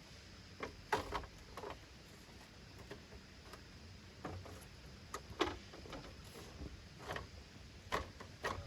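Scattered light knocks and clicks, about ten of them at irregular intervals, over a faint steady hiss.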